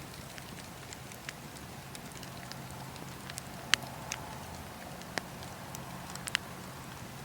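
Wood fire burning in a fireplace: a steady low rumble and hiss of flame with scattered sharp crackles and pops, the loudest pop a little past the middle.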